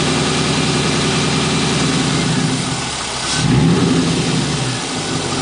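Car engine idling steadily, then a single quick throttle blip about three seconds in: the revs rise and fall back to idle.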